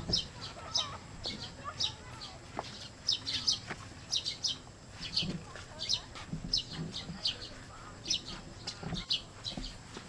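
Birds chirping: a steady run of short, high, down-slurred chirps, several each second, with a few soft low calls beneath.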